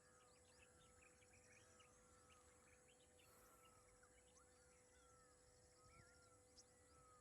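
Faint chorus of birds calling, many short chirps and whistles overlapping, with a faint steady hum beneath.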